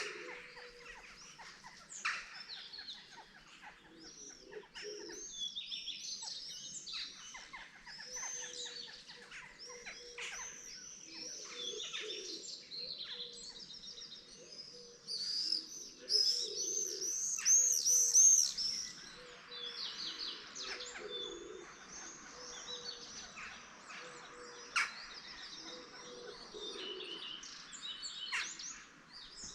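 A morning chorus of several songbirds chirping and singing over one another, with one bird's rapid run of repeated high notes loudest a little past the middle.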